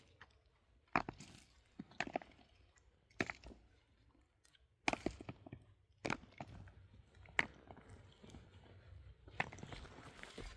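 Digging tool striking and crunching into the ground, in irregular blows about one every one to two seconds, each with a short gritty crunch.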